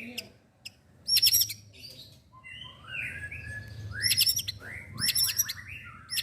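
White-rumped shama (murai batu) singing: short bursts of rapid, very high, sharp notes about a second in and three more in the second half, mixed with lower downslurred whistles in between.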